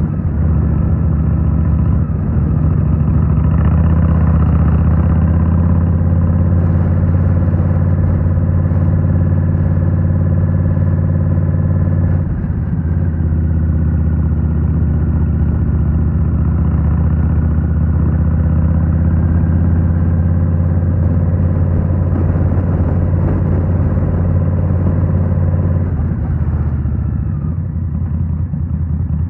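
Indian Scout Rogue's 69 cubic-inch V-twin running through a Rinehart slip-on exhaust at a steady engine speed while riding. The engine note dips briefly about twelve seconds in and eases off near the end.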